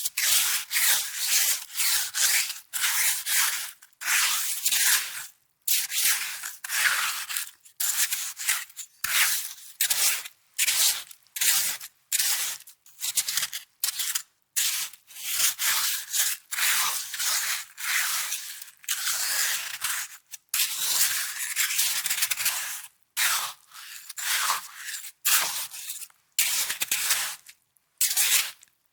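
Snow being crunched and rubbed in short, crisp bursts, about one or two a second, with brief pauses between them.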